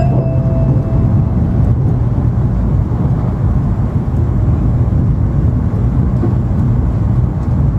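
Steady low rumble of an N700 series Shinkansen running at speed, heard inside the passenger cabin. The last note of the onboard chime melody fades out just under a second in.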